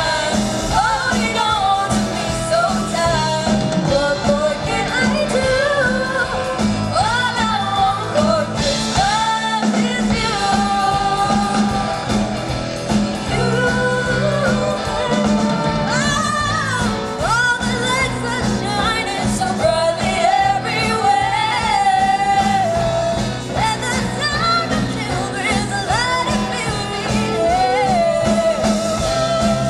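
A rock band playing live with a singer's voice over guitar, bass and drums.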